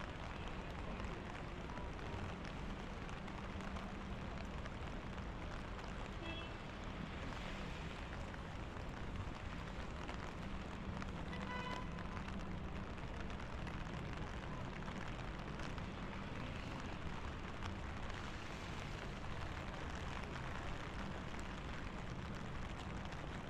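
Steady rain falling on a city street, an even hiss throughout, with a brief pitched call or tone about halfway through.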